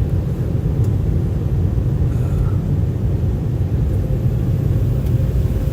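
Airliner cabin noise: a loud, steady low rumble of the jet engines and airflow heard from inside the plane.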